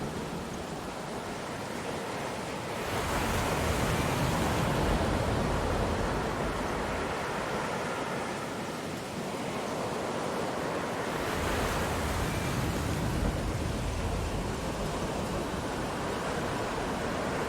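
Ocean surf: a steady rushing of waves that swells louder about three seconds in and again about eleven seconds in as waves roll in.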